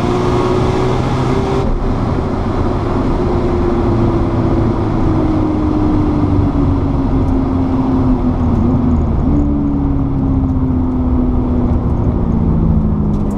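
Single-turbo RB26 straight-six of a 1993 Nissan Skyline R32 GT-R, heard from inside the cabin. The engine is pulling at first, then comes off the throttle about two seconds in, and its note falls steadily as the car slows at the end of a drag run. The pitch steps up once about nine seconds in, then falls again, over heavy road and wind rumble.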